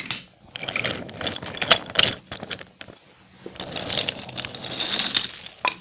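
Toy model trains running on a model railway track, with irregular clicking and rattling over the track and a faint steady hum.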